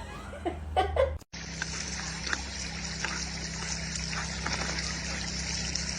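A few short whine-like calls, then after a sudden break about a second in, steady running water hissing without let-up.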